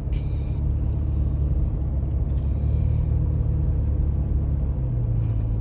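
Steady low rumble of a vehicle driving, engine and road noise with no change in pace.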